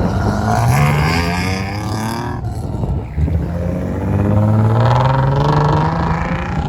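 A car engine accelerating hard: its pitch climbs, breaks briefly a little over two seconds in as it shifts up, then climbs again through the next gear.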